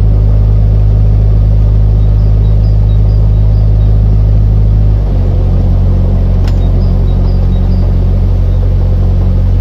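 Narrowboat's diesel engine running with a steady low drone; its note shifts about halfway through. A single sharp click comes a little after the change.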